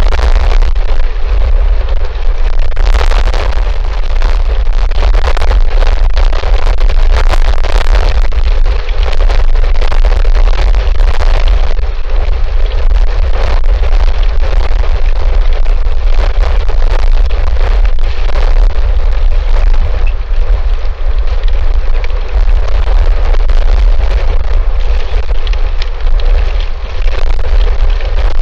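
Strong wind buffeting an outdoor microphone: a loud, continuous low rumble with rushing gusts that surge and ease every second or so.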